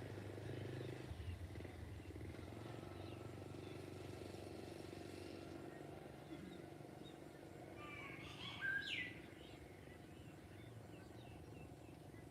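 Faint rural evening ambience with scattered distant bird chirps and a low hum that fades about a second in. About eight seconds in, a bird gives a short, louder run of calls that slide in pitch.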